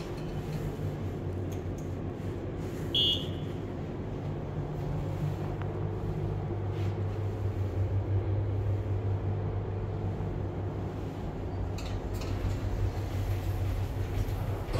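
1977 Thyssen elevator car travelling between floors: a steady low hum from the lift's drive and car. There is a short high beep about three seconds in.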